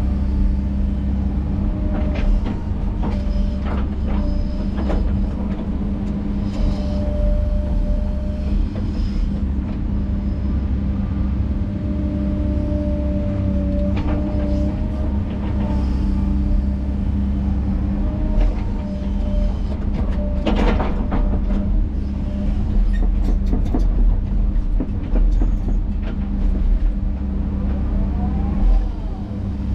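Tracked earthmoving machine running steadily under load, its engine holding a constant drone while the tracks and working parts clank and squeal again and again.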